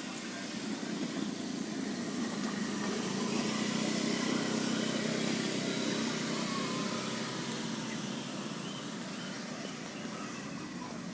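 A motor vehicle passing by: a low engine and road rumble that swells to its loudest about four seconds in, then slowly fades.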